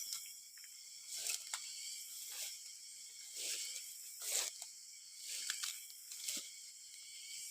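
Soft rustling steps through grass and leaves, about once a second, over a steady high chirring of insects.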